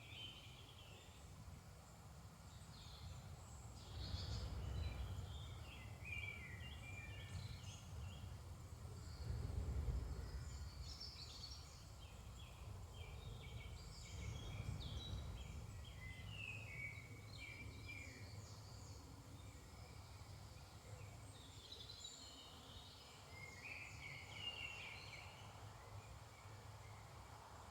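Woodland dawn chorus: several songbirds singing and chirping at once, overlapping short trills and phrases throughout. Underneath runs a faint low rumble that swells twice, around four and ten seconds in.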